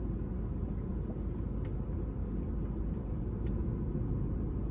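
Steady low road and engine rumble inside a moving car's cabin, with two faint ticks about two seconds apart.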